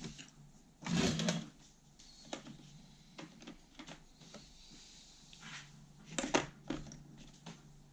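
Scattered knocks and clatters, the loudest about a second in and again about six seconds in, over a steady low hum.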